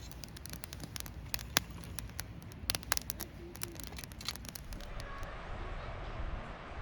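Wood campfire crackling, with many sharp pops and snaps. About two-thirds of the way through the pops stop and a steady rushing noise takes over.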